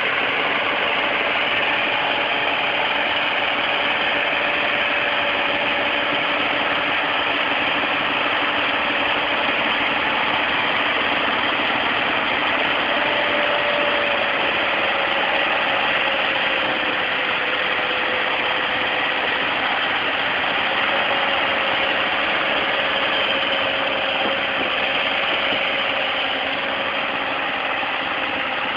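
Tractor engine running steadily while towing a stuck tractor, with a steady whine that drifts slightly lower in pitch over the half-minute.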